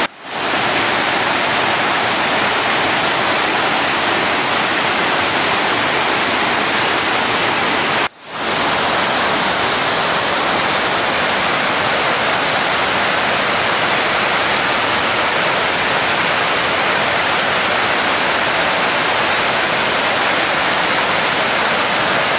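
Waterfall in flash flood, swollen after a night of heavy rain: a loud, steady rush of floodwater pouring over the falls. The sound cuts out briefly at the very start and again about eight seconds in, swelling back within half a second.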